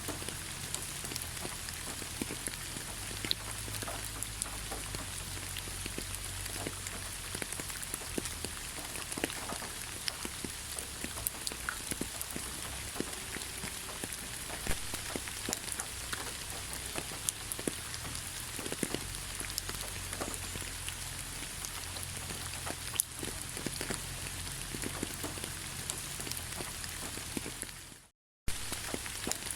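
Steady rain falling, a constant hiss with many individual drops tapping. Near the end it fades out to silence for about half a second, then starts again.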